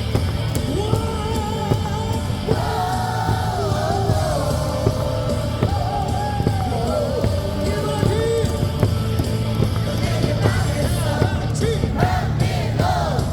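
A batter's walk-up song blaring over a baseball stadium's loudspeakers, with a steady beat and sung melody, and the crowd yelling along.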